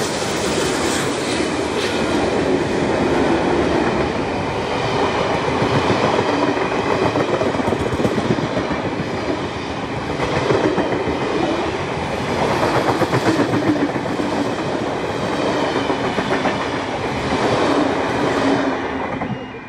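A long train's wagons and passenger carriages rolling past close by: steady wheel rumble with clickety-clack on the rails, rising and falling as the bogies go by. It drops away suddenly near the end as the last carriage passes.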